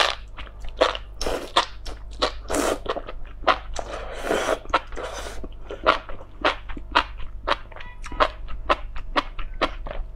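Close-miked chewing of enoki mushrooms: crisp, crunchy clicks of the stems breaking between the teeth, about three a second, with two longer, noisier stretches in the first half.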